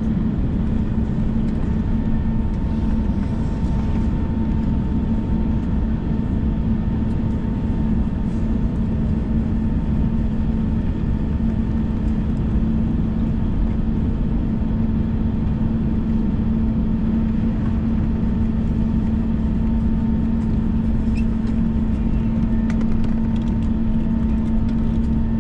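Steady cabin noise inside an Airbus A321 taxiing, a low, even rumble of the jet engines at idle with a constant hum running through it.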